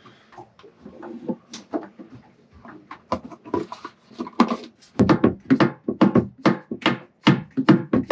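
Scattered light knocks and clicks of hands working with small plastic parts, then background music with a regular beat starting about five seconds in.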